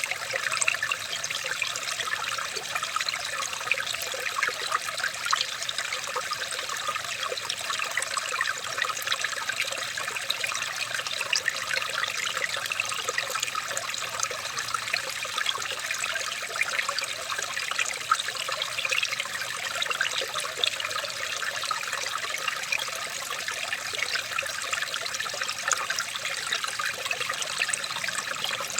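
Running water trickling steadily, as from a small stream: a constant rush dense with tiny splashes.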